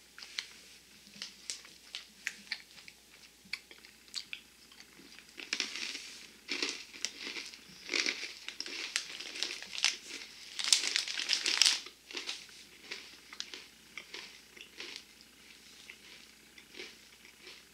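Hard, crunchy pretzel pieces being chewed close to the microphone: irregular crisp crackles that grow denser and louder in the middle, then thin out.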